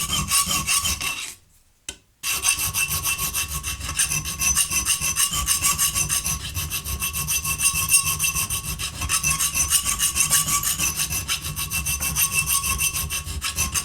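Half-round file being worked back and forth to widen a hole, in quick, even strokes, with a short pause about a second and a half in.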